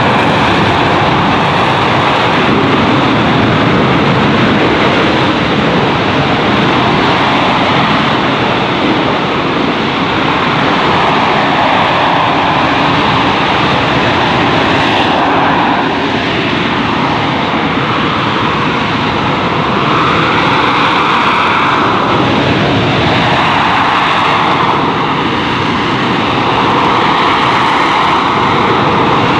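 McDonnell Douglas AV-8B Harrier II's Pegasus turbofan running at high thrust during its hovering display. It is a loud, continuous jet roar whose tone shifts and swells every few seconds as the aircraft manoeuvres.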